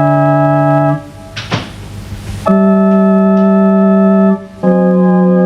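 Organ playing long held notes, three in turn, each lasting one to two seconds, with a short breathy hiss between the first and second.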